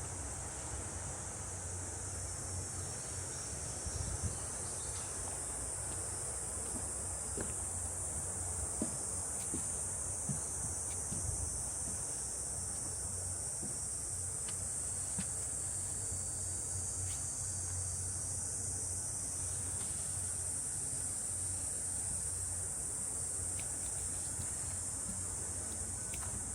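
A steady, unbroken high-pitched chorus of cicadas in the trees, with a low rumble underneath.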